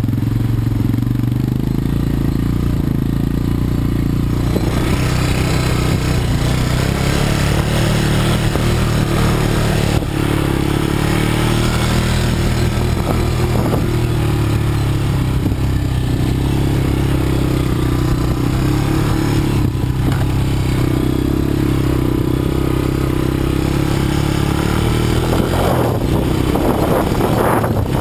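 Quad bike (ATV) engine running as it is ridden, its pitch rising and falling a little with the throttle. A rushing hiss joins it about four seconds in.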